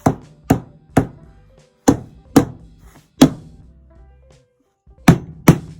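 Hammer striking nails into a hardwood floor panel: about eight sharp blows, mostly in pairs about half a second apart, with pauses between.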